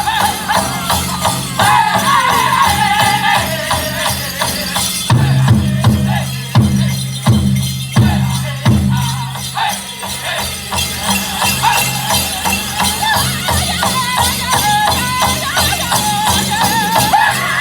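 Powwow drum group singing a chicken dance contest song in high, wavering voices over a steady drum beat, with the jingling of the dancers' bells.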